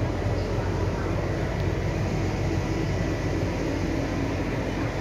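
Steady low rumble and hum of a passenger train coach, heard inside its vestibule.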